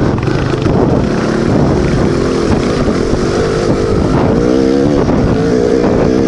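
Dirt bike engine running on a trail ride, its revs rising and falling with the throttle in the second half.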